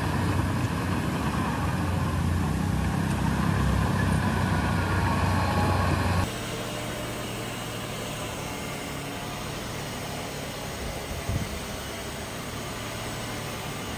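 Heavy diesel earthmoving machinery running: a loud steady engine for about six seconds, then an abrupt cut to a quieter, steady engine sound with a brief knock near the end.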